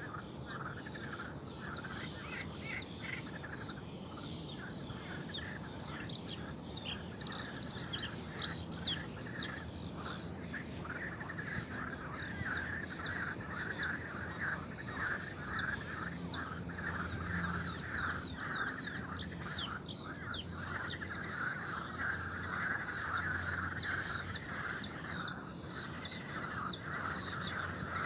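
Birds chirping and singing, many short calls and trills overlapping throughout, with a faint low hum underneath.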